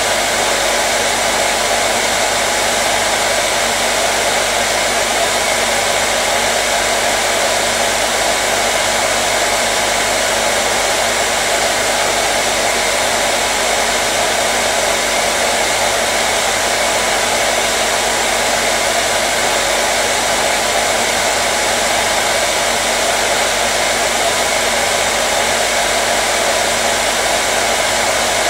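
Hair dryer running continuously: a steady, even blowing hiss with a faint motor hum, unchanging throughout.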